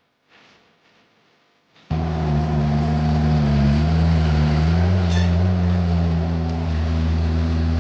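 An engine running steadily, its pitch wavering slightly. It cuts in suddenly at full loudness about two seconds in, after near quiet.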